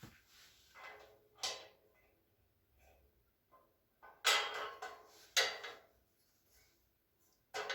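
Metal shelving parts and hardware clattering and rattling as they are handled and fitted together, in a few separate bursts, the loudest pair about four and five seconds in.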